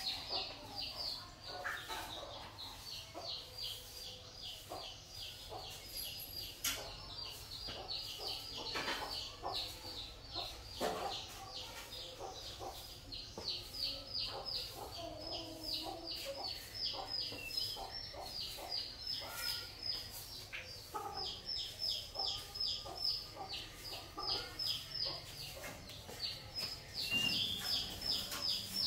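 A small bird chirping over and over, several quick, high, falling chirps a second without a break. Scattered soft knocks and scrapes sound underneath.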